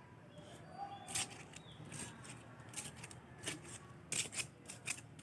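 Faint scattered scrapes, rustles and clicks of soil being dug through and worked by hand while searching for earthworms.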